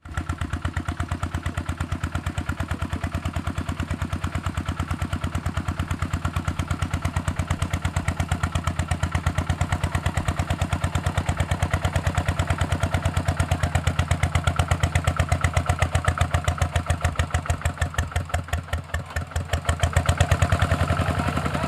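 Single-cylinder diesel engine of a walking tractor running with a fast, even chug. Near the end its beat slows and dips briefly, then picks up again.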